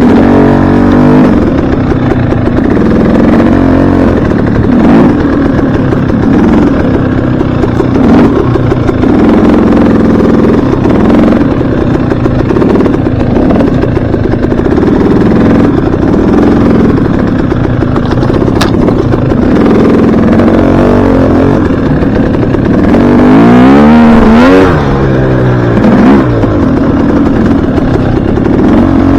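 Dirt bike engine running hard while being ridden, the pitch rising and falling as the throttle is worked, with one sharp rev up and back down about two-thirds of the way through.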